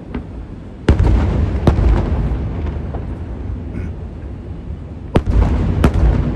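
Aerial fireworks shells bursting with sharp bangs and long rolling booms, two about a second in and two more near the end.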